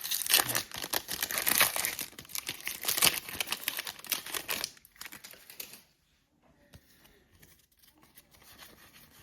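Foil trading-card pack wrapper crinkling and tearing open in a dense crackle for about five seconds, then only faint scattered rustles.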